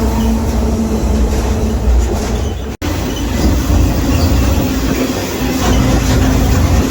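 Freight train rolling, a steady heavy rumble and rattle with a constant low hum. The sound drops out for an instant about three seconds in.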